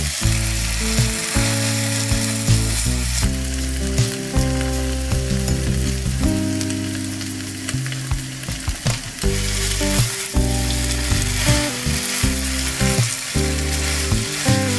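Stir-fried egg noodles sizzling in hot oil in a stone-coated frying pan, tossed and mixed with a spatula, with short scrapes and knocks of the spatula against the pan.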